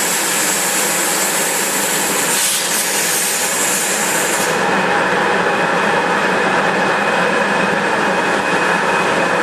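Flow waterjet cutting machine's high-pressure water jet hissing loudly and steadily as it works raw glass. About four and a half seconds in, its highest hiss drops away and a steady, slightly lower hiss carries on.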